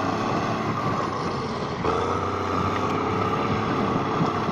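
Bulldozer's diesel engine running steadily as it pushes through heavy snow, its tone changing about two seconds in.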